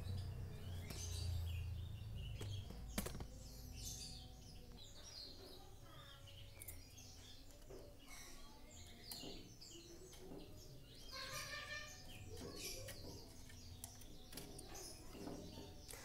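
Faint chirping of small birds in the background, in short scattered calls, over light scraping and tapping of a small metal blade on the bamboo and wooden frame of a bird cage, with one sharp click about three seconds in.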